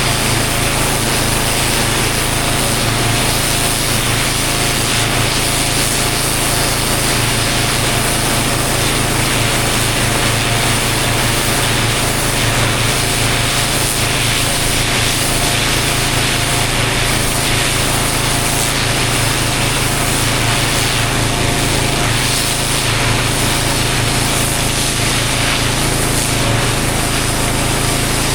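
A pressure washer's engine running steadily under the constant hiss of the water jet on block paving.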